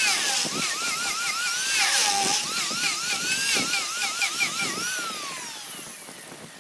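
Small high-speed power tool, a drill or rotary tool, whining as it works wood. Its pitch dips and recovers two or three times a second as it bites under load, then falls steadily as the tool winds down in the last second and a half.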